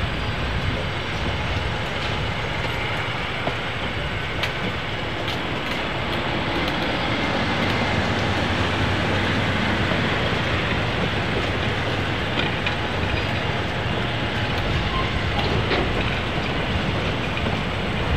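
Train rolling along the track: a steady noise of wheels on rail, with scattered short clicks.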